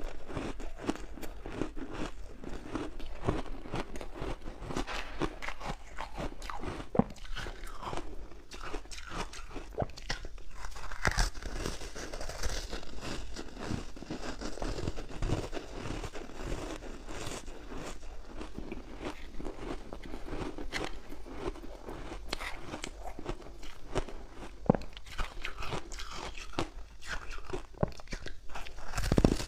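Close-up crunching and chewing of ice cubes coated in matcha powder, a dense run of irregular sharp crunches as the ice is bitten and ground between the teeth.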